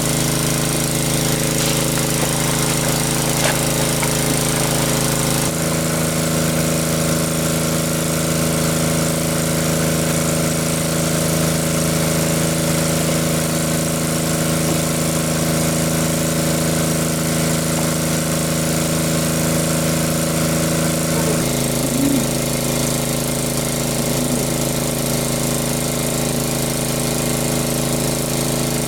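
An engine running steadily, its tone changing abruptly twice, about five seconds in and about twenty-one seconds in.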